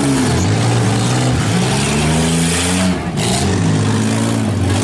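Several demolition-derby minivan and SUV engines running at once and being revved, their pitches rising and falling over one another.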